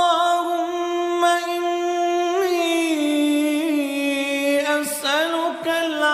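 A single voice chanting an Arabic morning supplication unaccompanied, drawing one syllable out into a long melodic held note with small ornamental turns, stepping down in pitch about two and a half seconds in and again around five seconds.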